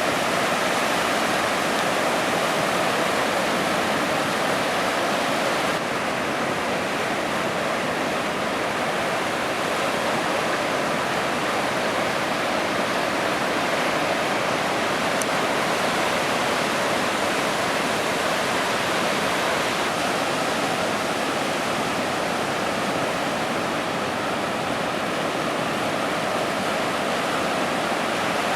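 Ocean surf: a steady, even roar of breaking waves without distinct separate crashes.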